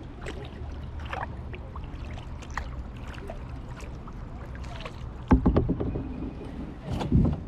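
Kayak paddling: water dripping and splashing off the paddle in small clicks, with two louder splashes or knocks about five and seven seconds in, over a steady low rumble.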